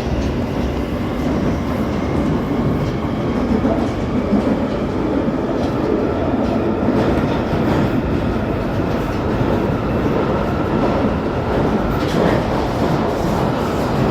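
London Underground Northern line tube train running at speed through a deep-level tunnel, heard from inside the carriage as a loud, steady rumble and roar with a few faint knocks of the wheels on the track.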